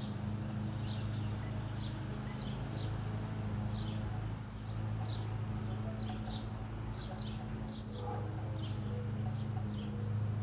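House sparrows chirping: many short, high, downward chirps, often two or three a second, over a steady low hum.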